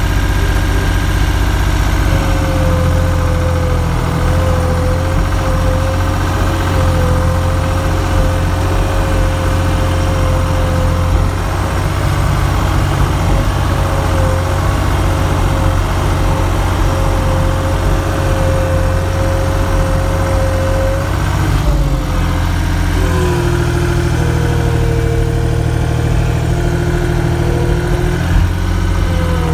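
Engine running steadily, with a thin whine above it that wavers and then steps down in pitch about three quarters of the way through.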